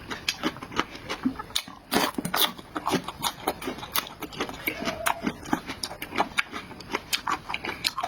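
Close-miked wet chewing and lip smacking on soft, greasy meat: a rapid, irregular run of moist clicks and smacks.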